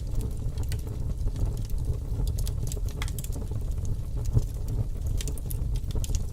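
Fire crackling: a steady low rumble with irregular sharp pops and crackles scattered through it.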